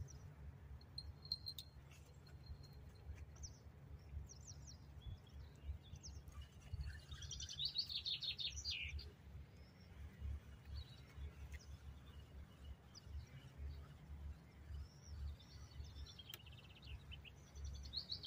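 Small birds singing, with quick chirping phrases, the fullest about halfway through and another near the end, over a low steady rumble.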